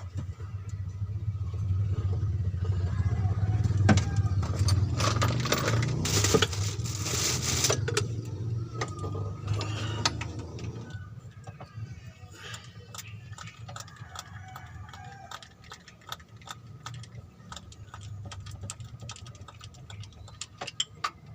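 Metal hand tools clicking and rattling against engine parts during a repair. A vehicle engine runs nearby through the first half, swells in the middle and fades away about halfway through.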